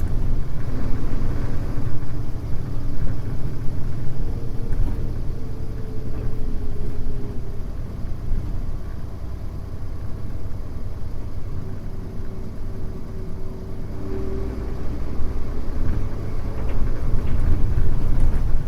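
Mitsubishi Fuso U-MK618J route bus's diesel engine running as the bus drives, with a steady low rumble. The engine eases off in the middle and builds up again near the end.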